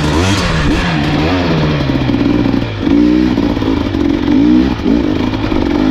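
Dirt bike engine revving up and down in repeated throttle bursts, its pitch rising and falling as the bike is ridden along a trail.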